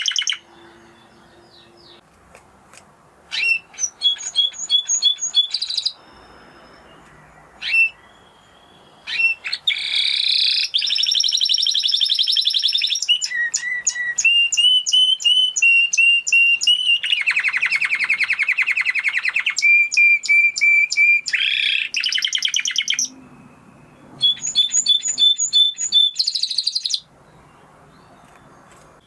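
Spanish Timbrado canary singing: phrases of rapid repeated notes and trills, each held at one pitch for a second or two before switching, with short pauses between runs.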